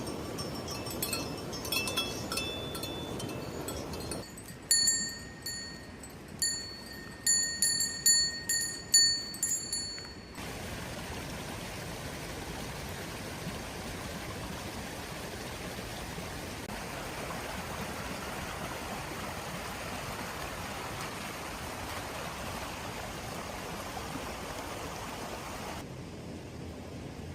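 Bell-like chime notes ring out several times during the first ten seconds, each dying away quickly. A steady hiss of rain follows.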